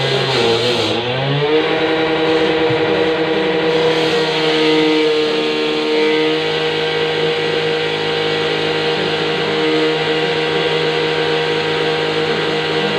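A motor or engine running steadily with a constant droning pitch. The pitch dips and comes back up about a second in, then holds level.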